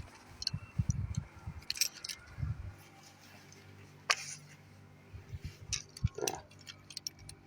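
Clicks, knocks and rustles of hand-held equipment being handled, loudest in the first three seconds and again about four and six seconds in, over a steady low mains hum.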